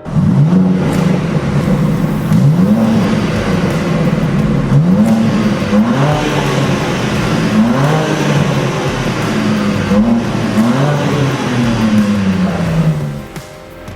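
High-performance car engine revved repeatedly through a sport exhaust, its pitch climbing with each rev and falling back, about ten times, then a longer falling run-down before it cuts off near the end.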